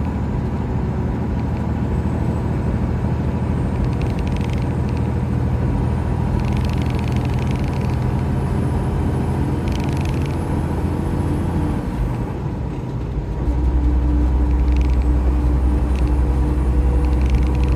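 Semi-truck's diesel engine running steadily from inside the cab while driving. About twelve seconds in, the engine note dips briefly, then comes back deeper and louder.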